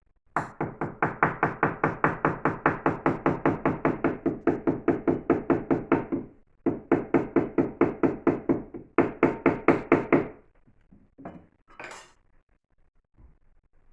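Rapid, even tapping on the last brick of a fireplace, about four or five knocks a second in two long runs with a brief break between them, then a couple of single knocks. The brick is being knocked down into a thick bed of mortar to level it.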